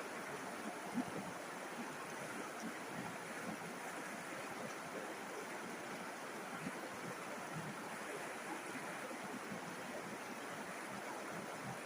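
A river flowing, a steady rushing and babbling of running water.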